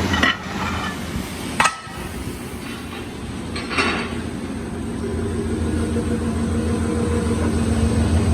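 Workshop machinery running with a steady low drone, with three sharp metal knocks about a third of a second, a second and a half, and four seconds in.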